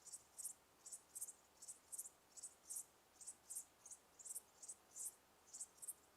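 A cricket chirping steadily: short, high-pitched chirps repeating in pairs and triplets, about two to three a second, over a faint background hiss.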